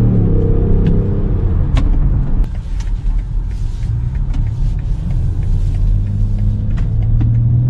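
Car driving: a steady low engine and road rumble with scattered faint clicks. A layer of held tones above it fades out about two and a half seconds in.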